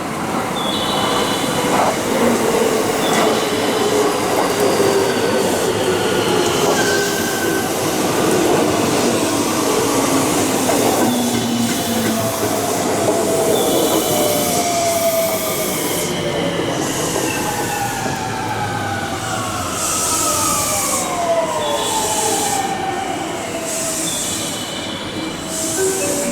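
Electric train running along a station platform, with a steady rumble and hiss of rolling wheels. Wheel squeal and several whines slide down in pitch throughout.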